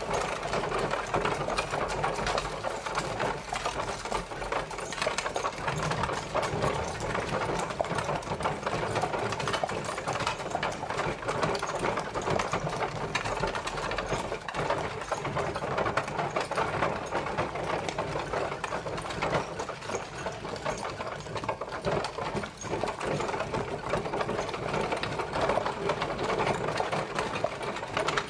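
Horse-drawn carriage rolling steadily, its wheels and wooden body rattling and clattering in a continuous dense texture, with a low rumble underneath.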